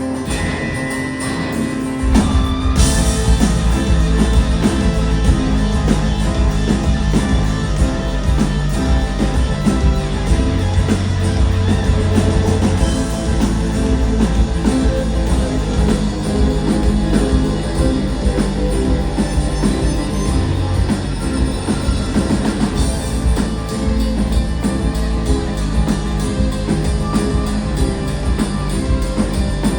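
Live rock band playing amplified through a PA: guitar alone at first, then the full band with bass and drums comes in about two seconds in.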